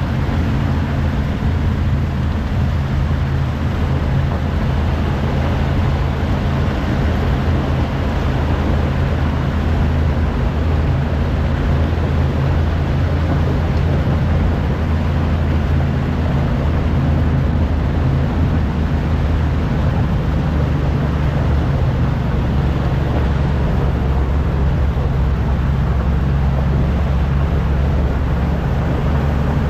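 Heavy diesel truck engine running steadily, a deep drone with road noise over it.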